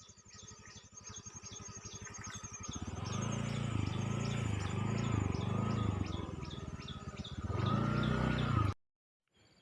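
Rhythmic high chirping, about three chirps a second, from insects or birds. Over it, a low pulsing hum like a small engine grows louder about three seconds in and is the loudest sound. Everything cuts off abruptly near the end.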